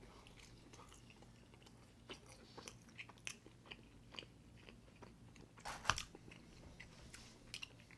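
Close-miked chewing and mouth sounds of a person eating deep-dish pizza: scattered soft wet clicks, with a louder bite or crunch about six seconds in.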